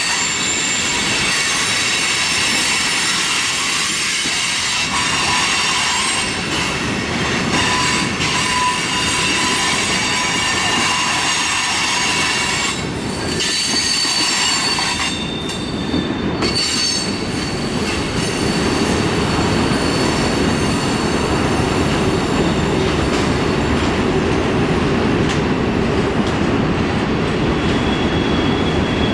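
Freight train of tank cars and covered hoppers rolling past on a curve: a continuous wheel-on-rail rumble with steady high-pitched squealing from the wheels grinding on the curved rail. The squeal is strongest in the first half and the rumble grows heavier near the end.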